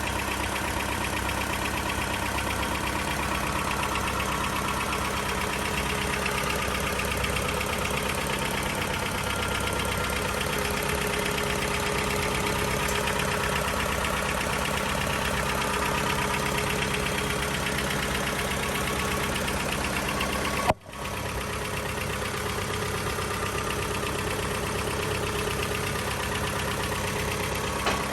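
A 1980 Toyota engine running steadily. About three-quarters of the way through there is a sharp click and the sound briefly drops out.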